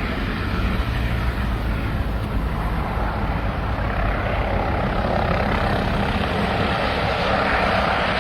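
Propeller aircraft engine droning steadily, with a loud rushing noise.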